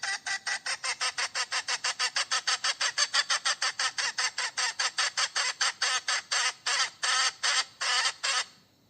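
Hen cackling in a fast, even run of short notes, about six a second, that slows a little and stops shortly before the end. The uploader tags this cackling as a hen calling for a mate.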